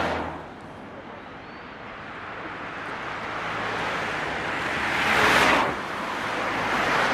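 Road traffic: a vehicle passing close by, its rushing noise building to a peak about five seconds in and falling away quickly, with another coming up near the end.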